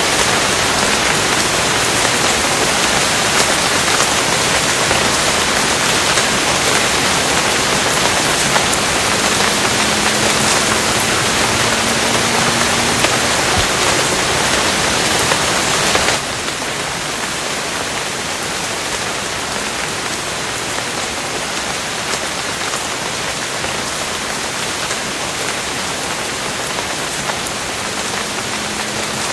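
Steady, dense rain falling as an even hiss. About halfway through it suddenly drops to a somewhat quieter, duller level.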